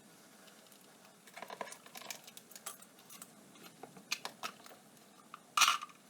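Scattered clicks and light knocks of hand tools and metal parts being handled while an ATV is taken apart, with one louder clank near the end.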